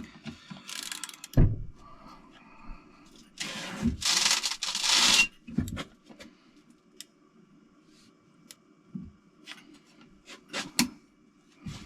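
Hand tools and metal engine parts being handled while bolts are tightened: scattered clicks and knocks, a thump about a second and a half in, and a scraping, rustling noise lasting about two seconds midway.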